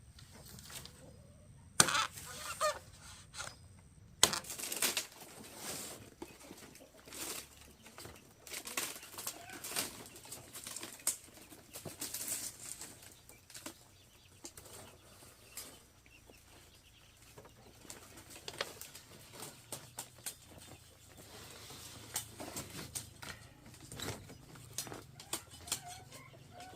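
Chickens clucking and flapping their wings, with irregular knocks and rustles.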